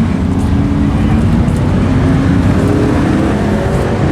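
Drag-race car engines running loud on the strip, with pitch climbing partway through as an engine revs up.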